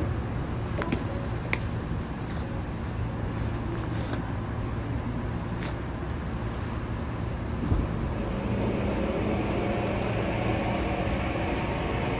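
Saitama Railway 2000 series electric train standing with a low steady hum and a few clicks, then starting to pull away: from about eight seconds in, the traction motors' whine sets in and rises in pitch as the train accelerates.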